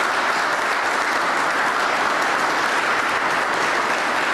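Audience applauding steadily, a large crowd clapping in a hall.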